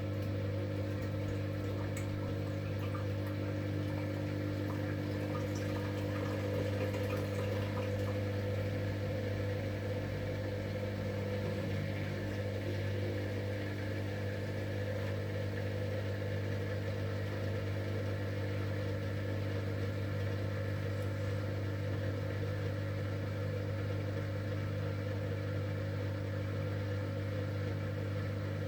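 V-Zug Unimatic SL washing machine running, with a steady, even motor hum.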